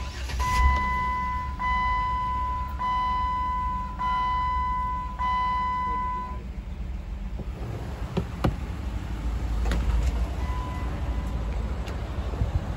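2007 Jeep Wrangler's 3.8-litre V6 starting and settling into a steady idle. The door-ajar chime dings about once a second for the first six seconds. A couple of sharp knocks come about eight seconds in.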